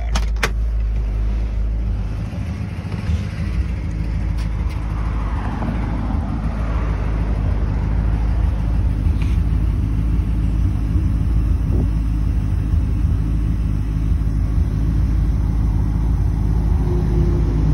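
Mercedes 500SEC's V8 engine idling steadily. A couple of sharp clicks come right at the start.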